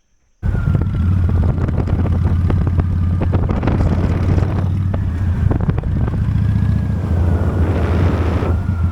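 Motorcycle engine running under way with wind buffeting the microphone, a steady low rumble with a faint whine, cutting in suddenly about half a second in.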